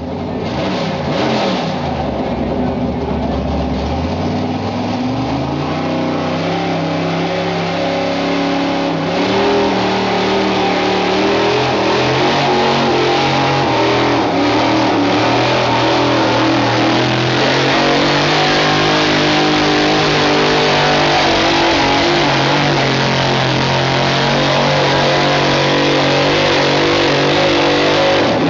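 Gasoline engine of a modified pulling truck running hard at high revs under load during a pull. Its pitch sags over the first few seconds, then holds nearly steady for the rest.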